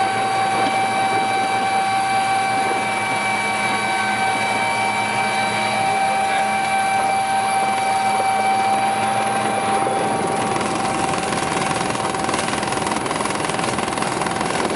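Helicopter running steadily: a constant high whine over an even rush of engine and rotor noise.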